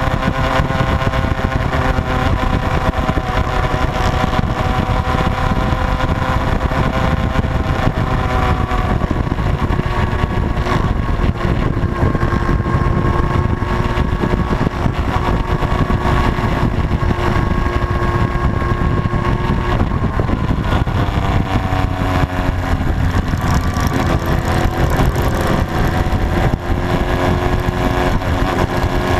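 Motorcycle engine running at road speed, its note holding steady, then dropping about two-thirds of the way through and climbing again, over a heavy low rumble of wind on the microphone.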